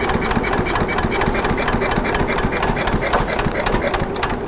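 Kelvin two-cylinder marine engine running steadily with a rapid, even knocking beat, just switched over to compression after starting on petrol, so it is now running on diesel.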